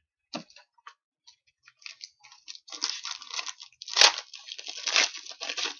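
Trading cards and a foil pack wrapper being handled: a few light clicks, then dense crinkling and rustling from about three seconds in, with one sharp snap near the middle of it.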